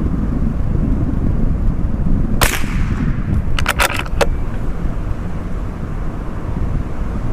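Strong wind buffeting the microphone as a steady low rumble, with a single .22LR rifle shot from a CZ457 about two and a half seconds in. About a second later comes a quick run of sharp metallic clicks, the bolt being worked to chamber the next round.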